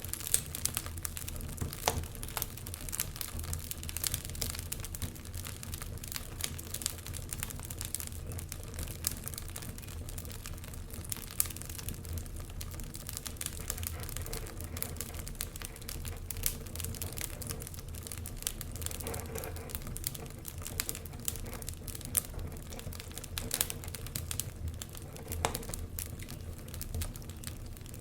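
Wood fire burning in a fireplace: steady crackling, with irregular sharp pops and snaps over a low rumble of the flames.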